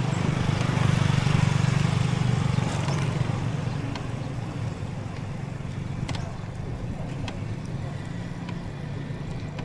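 Motor vehicle engine running with road noise. It is loudest about one to two seconds in, then eases to a steadier, lower level.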